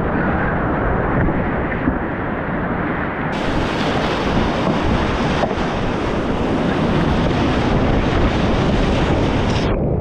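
Loud steady rush of whitewater rapids, with wind buffeting the microphone. The sound turns brighter about three seconds in and duller again just before the end.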